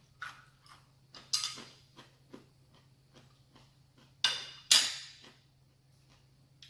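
Eating sounds: utensils clicking and clattering against a bowl, a handful of sharp knocks with two louder, longer clatters about a second and a half in and near the middle.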